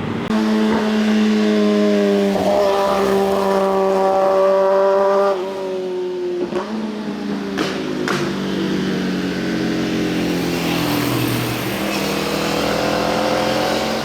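Motorcycle engines passing on a winding mountain road: one engine's note climbs steadily under acceleration, then drops suddenly about five seconds in, and another engine's rising note comes in near the end.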